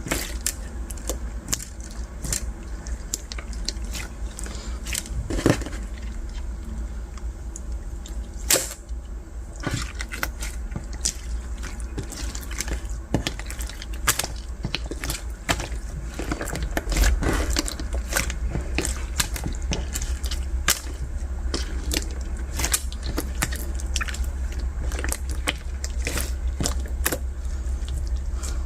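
Translucent slime with beads mixed in being squished and worked by hand, giving an irregular run of sharp, crunchy clicks and squishes.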